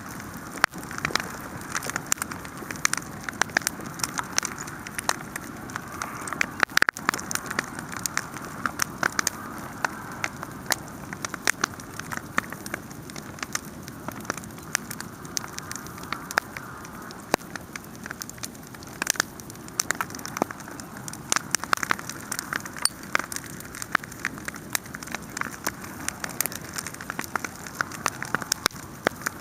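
Wood fire burning, with constant irregular crackling and popping over a steady hiss of flames.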